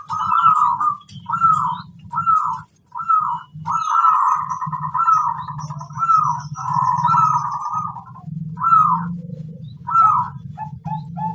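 Zebra dove (perkutut) cooing: a string of short arched notes about one every three-quarters of a second, broken by longer rolling phrases. A low steady hum lies underneath, and faint high chirps sound above.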